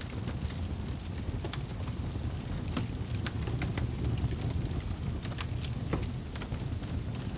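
Wood fire in a fireplace crackling, with irregular sharp pops and snaps, several a second at times, over a steady low rumble of the burning logs.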